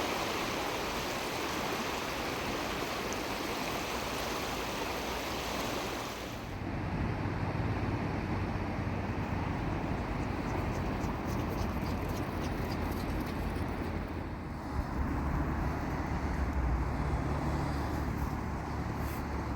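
Ocean surf, a steady rush of noise. About six seconds in, the sound abruptly turns duller, with a low rumble that grows stronger again near the end and a few faint ticks.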